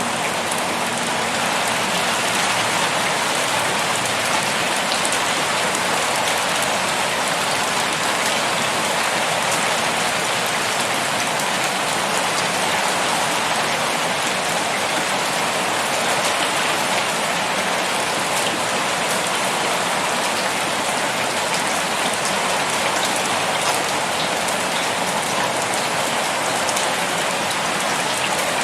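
Heavy rain pouring steadily, an even hiss of drops on surfaces with faint individual drop ticks.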